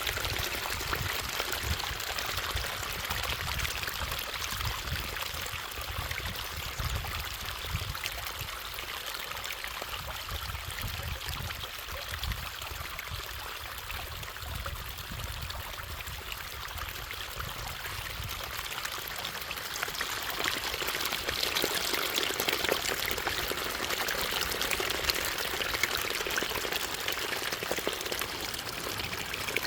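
Running water of a stream, a steady rushing flow. A low rumble underneath dies away about two-thirds of the way through.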